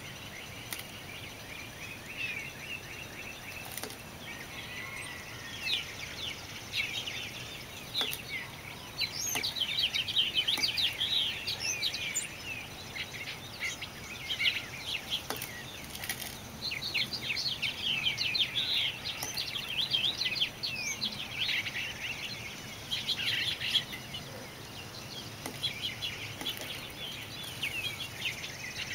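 Small birds chirping and twittering in many quick, overlapping calls, densest through the middle stretch.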